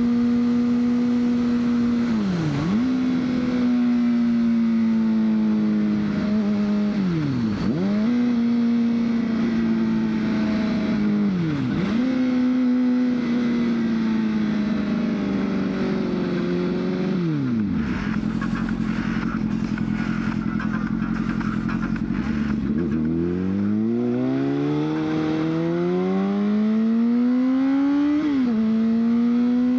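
2003 Honda CBR600RR inline-four engine on the move: it holds steady revs with a few brief dips where the throttle is rolled off and back on, drops to idle for about five seconds, then pulls away with the revs climbing, one gear change near the end, and climbing again.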